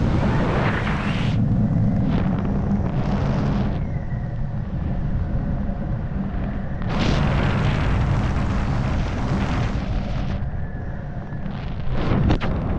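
Wind buffeting a helmet camera's microphone during a skydive: a constant low rumble with surges of rushing air that swell and fade several times.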